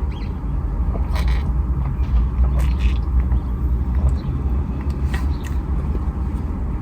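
Steady low rumble of a car's cabin, with a few faint clicks or rustles.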